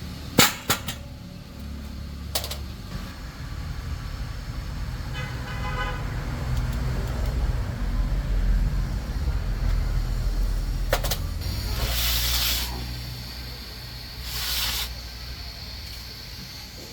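Vehicle traffic rumbling, swelling and fading again, with a short horn toot about five seconds in. Sharp clicks or knocks come near the start and at about eleven seconds, and two short bursts of hiss come near the end.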